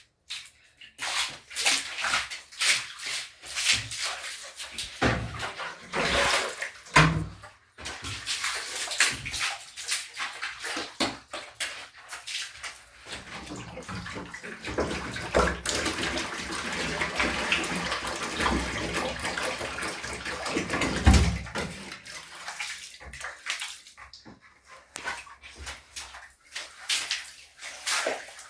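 Water splashing and sloshing in irregular bursts, as in washing by hand, turning into a denser, continuous sloshing about a third of the way in and breaking up into scattered splashes again near the end.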